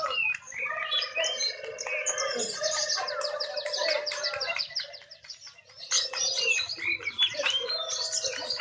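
Several lovebirds chirping and chattering at once in fast, overlapping high trills, dropping off briefly about five seconds in.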